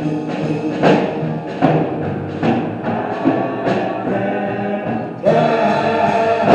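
Live gospel song from a church band and singers, with drums keeping the beat under held chords. It swells louder about five seconds in.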